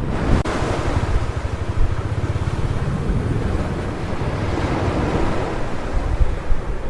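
Sea waves breaking and washing on a beach, with wind buffeting the microphone as a low rumble.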